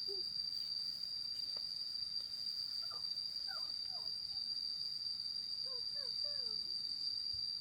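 Insects calling in one steady, unbroken high-pitched tone. Faint, short falling calls come in a few at a time around the middle.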